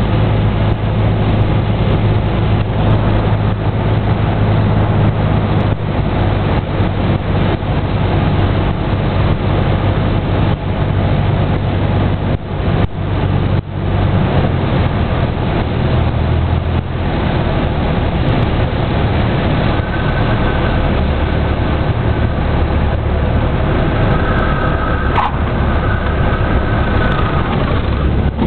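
Airplane engine and propeller droning steadily, a continuous low hum under an even rushing noise.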